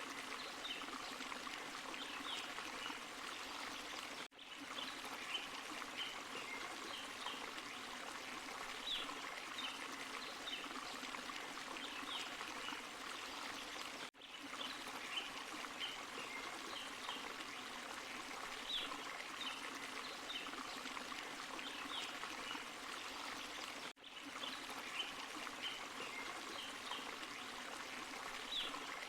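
A forest stream and small waterfall running steadily, with the sound cutting out for a split second about every ten seconds.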